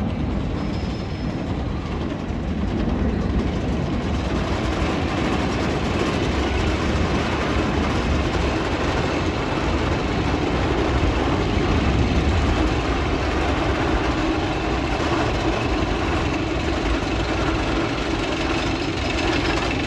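Roller coaster train rumbling along its track, a steady low rumble that grows louder about three seconds in and is loudest around the middle.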